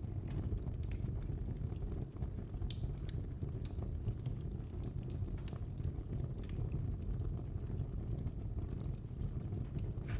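Wood fire burning in a fireplace: a steady low rumble of flames with irregular sharp crackles and pops every second or so.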